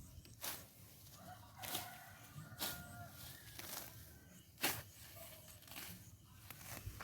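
A rooster crowing faintly, one steady call from about a second in lasting some two seconds and a shorter call about five seconds in. Sharp rustling scrapes come every second or so, the loudest near the middle.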